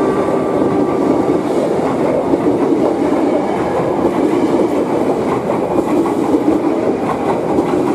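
Ex-Tokyo Metro 6000 series electric commuter train passing at close range, its cars and wheels on the rails making a loud, steady noise. A few steady high tones fade out in the first second or two.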